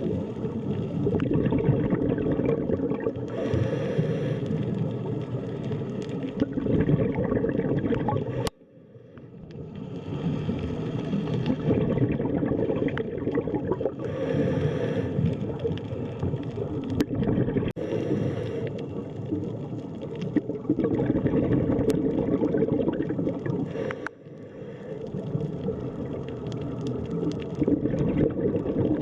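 Underwater sea ambience: a dense, low gurgling water rumble. It drops out suddenly about eight seconds in and swells back over a couple of seconds, with a shorter dip later on.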